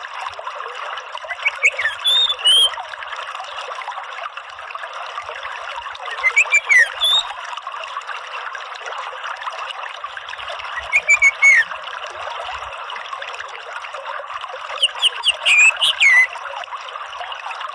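Orange-headed thrush singing four short phrases of quick sliding notes, a few seconds apart, over a steady trickle of running water.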